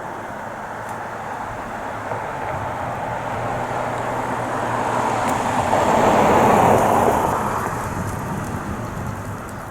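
A train hauling JR Hokkaido KiHa 261 series 5000 diesel cars rolls past. The sound of wheels on the rails grows louder, peaks about six to seven seconds in, then fades.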